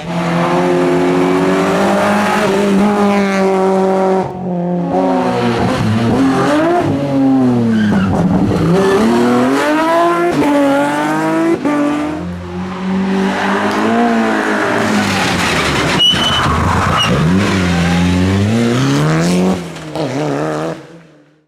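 Rally car engine at full racing load, the revs climbing and dropping sharply again and again as it works through the gears. The engine note fades out near the end.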